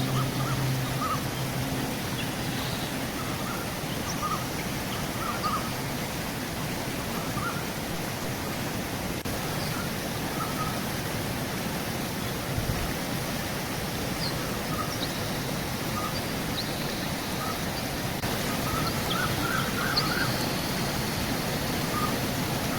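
Steady rushing of a river, with short bird chirps scattered over it, more of them near the end.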